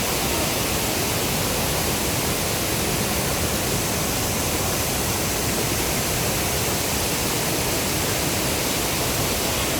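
Shipot waterfall, a cascading mountain waterfall, pouring with a steady, unbroken rush of falling water.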